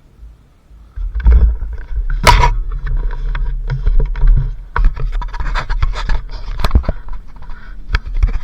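Honda XLR80R dirt bike with a Kawasaki KX80 two-stroke engine ridden off-road, heard from a helmet camera: a low rumble that starts suddenly about a second in, with many knocks and rattles throughout.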